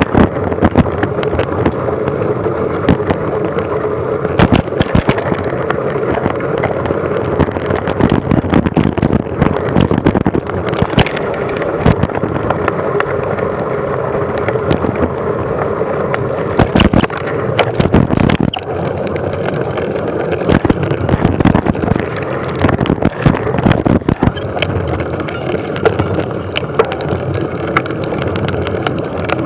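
Steady wind noise on a moving microphone with frequent knocks and rattles, heaviest a little past the middle.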